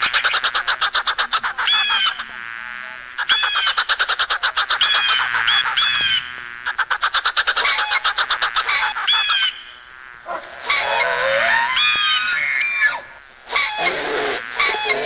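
Animal calls: rapid buzzing trills with short, falling high chirps over them, then, from about ten seconds in, a run of varied calls that slide up and down in pitch.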